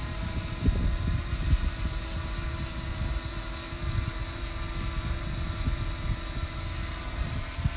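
Strong gusty wind buffeting the microphone, with the steady whine of a DJI Mini 2 drone's propellers as it flies in the wind.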